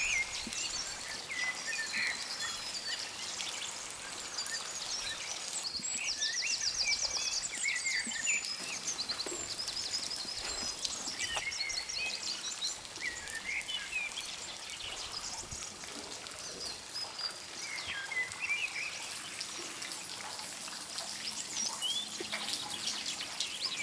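Wild songbirds chirping and singing, with fast trills between about six and ten seconds in, over a steady hiss of light rain.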